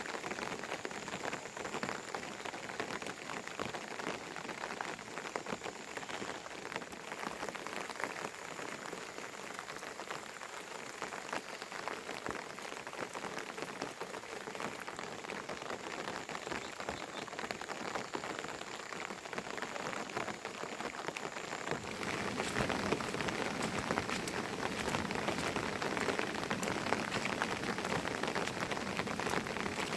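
Rain falling steadily, with many separate drops ticking on a surface; it grows louder and denser about two-thirds of the way through.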